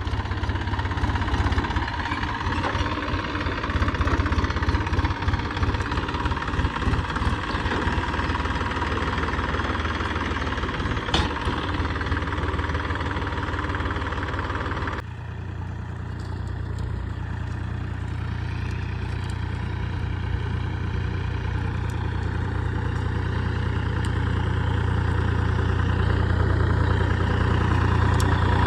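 A vehicle engine running steadily with a deep hum. About halfway through the sound changes abruptly, like a cut to another take, and the engine carries on running.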